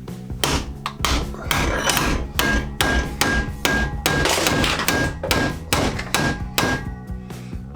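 A rapid series of hammer blows on metal, about two to three a second, each followed by a short high ringing note.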